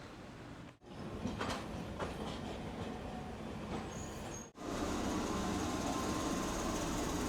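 Tosaden streetcar running on its rails, with several sharp wheel clicks. The sound breaks off abruptly twice, about a second in and again midway, and after the second break the running noise is louder and steady.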